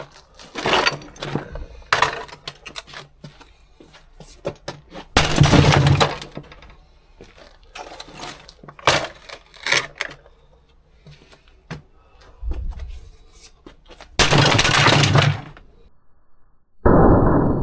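Hammer blows smashing apart plastic housings and parts, with cracking and small pieces clattering. Several heavy crashing blows stand out, two of them lasting about a second, with irregular smaller knocks and clicks between them.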